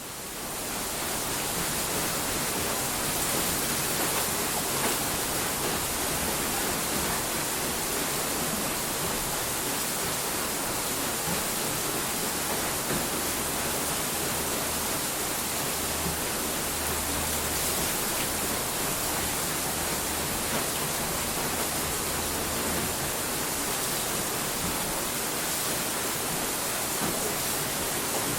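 A steady rushing noise sound effect that fades in over the first second, then holds even with no changes.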